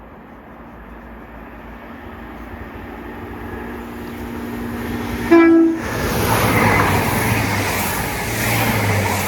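Class 165 diesel multiple unit approaching, its engine hum and rail noise growing steadily louder. It gives one short horn blast about five seconds in, then runs in close with a loud rush of wheel and engine noise.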